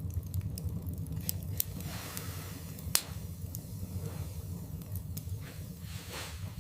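Wood fire burning in a fireplace: logs crackling, with scattered sharp pops over a steady low rumble, the loudest pop about three seconds in.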